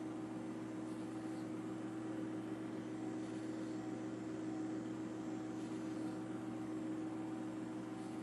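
A steady engine drone at a constant pitch over a hiss, with no change in speed.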